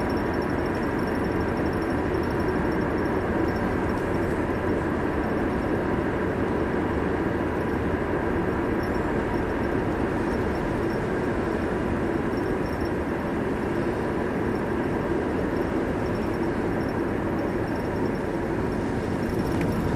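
Steady road and engine noise inside a moving car's cabin, an even rushing hum with no change.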